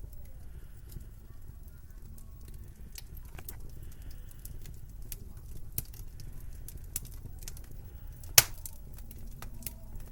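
Wood fire crackling in a fireplace: irregular small snaps with one sharp, loud pop a little past eight seconds in, over a steady low rumble.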